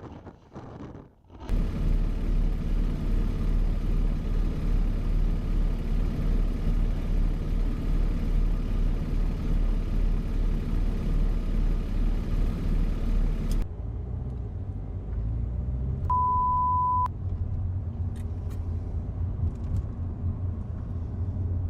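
Steady low rumble of a vehicle's engine and road noise as picked up by a dashcam, changing abruptly partway through to a softer hum. In the quieter stretch a single high, steady beep sounds for about a second.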